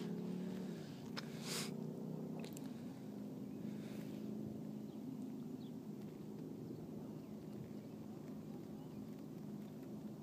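An engine running steadily at low level, its pitch dipping slightly about a second in and then holding. A few soft clicks fall in the first few seconds.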